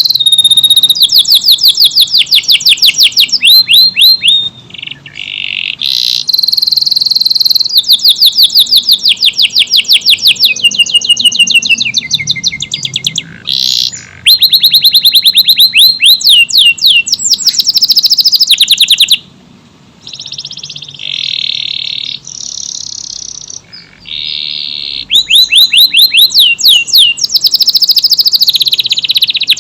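Domestic canary singing a long song of fast trills, each a quick run of repeated high notes, phrase after phrase with only short breaks between them.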